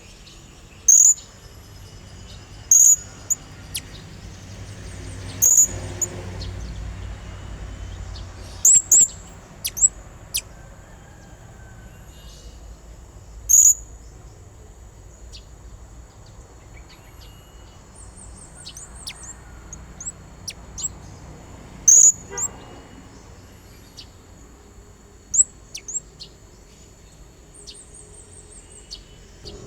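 Blue-crowned hanging parrot (serindit) calling: short, sharp, very high-pitched notes at irregular intervals, some in quick pairs, with a faint rapid high trill about two-thirds of the way through. These are the calls used to lure rival serindits.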